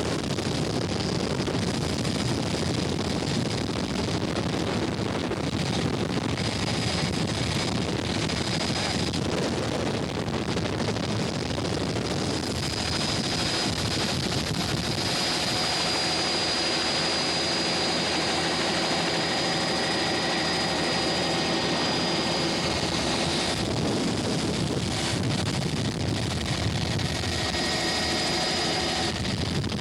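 Steady engine drone mixed with rushing noise, with faint steady whining tones coming in about halfway through.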